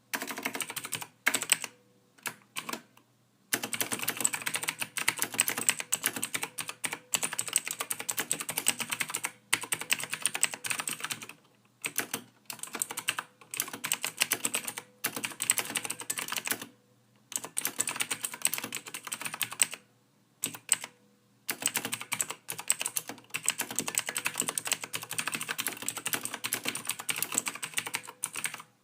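Typing on a computer keyboard: rapid runs of key clicks in bursts of several seconds, broken by brief pauses.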